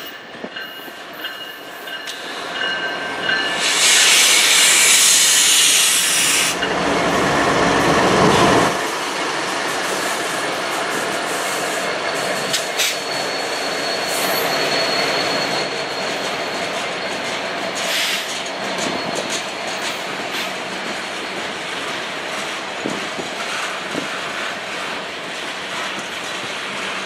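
Freight train of covered hopper cars rolling past, its wheels clacking and squealing thinly on the rails. About four seconds in comes a loud hissing rush, then a heavier rumble that stops sharply near nine seconds. A locomotive coupled mid-train passes partway through.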